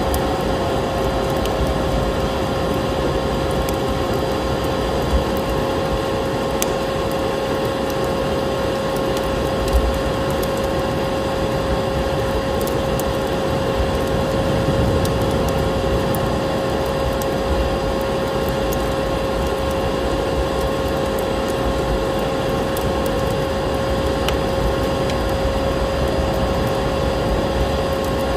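Vacuum cleaner running steadily: an unbroken motor noise with a constant whine, and sharp wood-fire crackles scattered over it.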